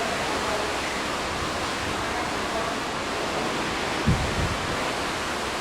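Steady rush of wind and sea water heard from the deck of a moving ship, with a brief low thump about four seconds in.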